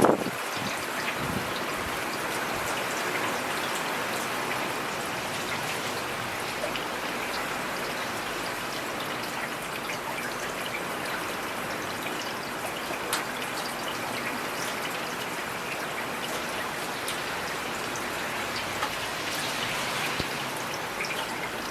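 Heavy rain falling steadily, a dense even hiss with the sharp ticks of single drops striking surfaces.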